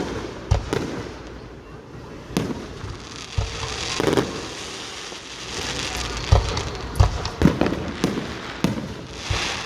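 Fireworks display: about a dozen booming aerial shell bursts in irregular succession, with hissing crackle between them.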